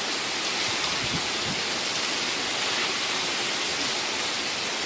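Heavy rain falling steadily during a thunderstorm: an even, unbroken hiss.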